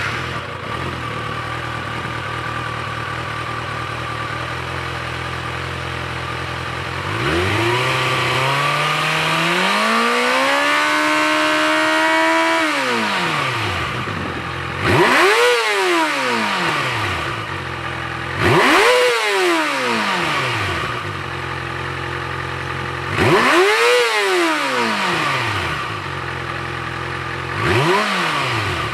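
2018 Kawasaki ZX-6R's 636 cc inline-four on its stock exhaust, idling steadily, then revved in a slow climb held high for a few seconds about seven seconds in before dropping back. After that it is blipped sharply three times, with a smaller blip near the end.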